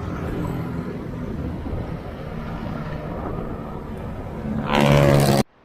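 Wind rushing over the microphone and road noise while coasting downhill on a bicycle. A louder burst with a low hum comes about five seconds in and cuts off suddenly.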